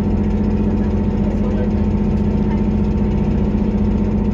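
Diesel engine of a JR Kyushu KiHa 183-1000 series railcar heard from inside the passenger cabin: a loud, steady drone with a clattering rattle in it (garagara). The rider suspects an engine fault or wear from age.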